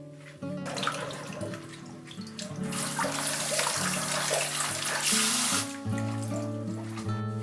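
Tap water running into a sink, starting about half a second in, running harder midway and cutting off sharply nearly two seconds before the end. Soft acoustic guitar music plays underneath.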